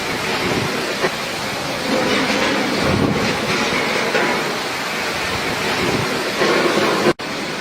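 Loud, steady rush of storm wind and heavy rain on the microphone, swelling and easing, with a sudden cut-out about seven seconds in.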